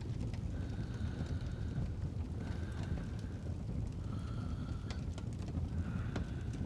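Fireplace ambience: a steady low rumble with scattered crackles and pops of burning wood. Slow breathing rises about every two seconds with a faint whistling tone.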